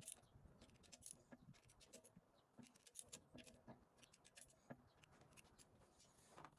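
Near silence with faint scattered clicks and light scraping.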